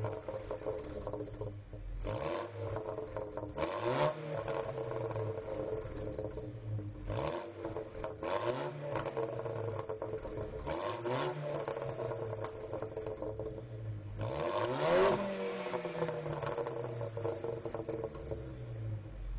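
Turbocharged 2.0-litre four-cylinder of an Audi A4 2.0T with a cat and resonator delete, free-revved from cold about eight times, the note rising and falling every two to three seconds. Short sharp pops ride on several of the revs: backfiring that the owner puts down to the extra fuel the ECU sends while the engine is cold.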